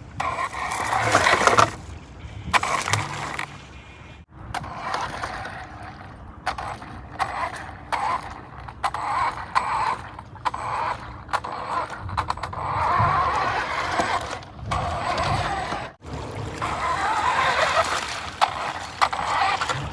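Electric RC truck driving over rocks and through shallow creek water, its tyres splashing and churning the water, over the running creek. The sound comes in several pieces with sudden cuts.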